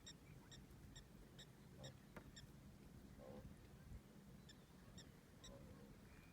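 Faint outdoor ambience with a rapid, even series of short high-pitched chirps, about four a second, that pause briefly partway through. A couple of faint lower calls and a single click are also heard.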